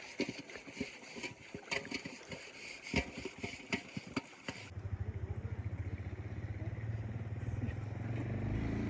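Scattered knocks and clicks over running water, then an abrupt switch to a small engine running with a fast, steady low throb.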